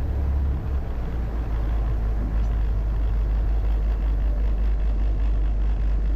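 Steady heavy rumble of wind buffeting the microphone over the noise of rough sea.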